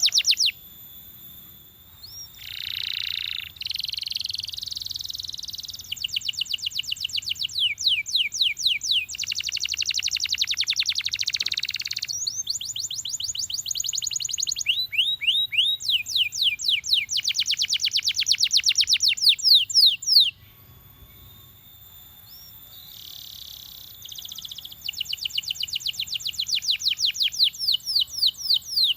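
Belgian canary singing: phrases of high, rapid trills made of quickly repeated downward-sweeping notes, interrupted by short held rolls. The song drops away for several seconds about two-thirds of the way through, then the trills resume.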